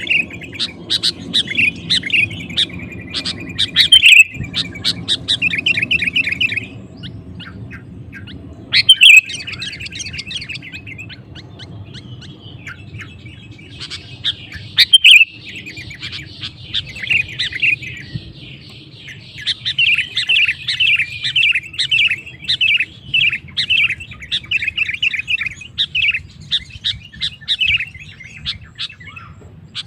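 Sooty-headed bulbul (kutilang) singing vigorously in rapid runs of bright chirping phrases, with a pause of a few seconds partway through, over a steady low hum. Three sharp, loud clicks stand out, at about 4, 9 and 15 seconds in.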